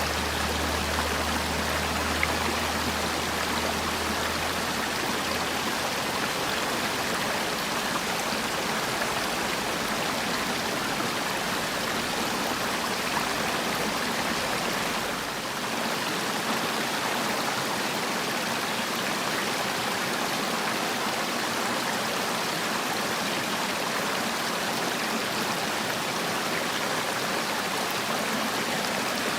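Mountain valley stream flowing over rocks: a steady, continuous rush and babble of running water.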